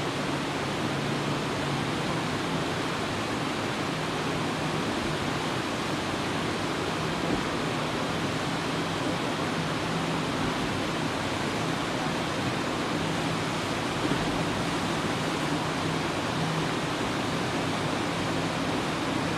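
Welded aluminum jet boat under way on a river: a steady rush of water and jet wash, with a low engine hum underneath that fades in and out.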